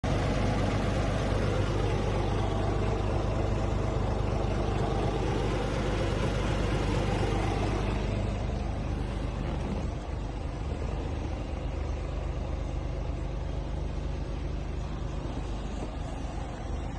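Scania R450 truck's 13-litre inline-six diesel engine running steadily; about eight to ten seconds in, the sound turns duller and a little quieter.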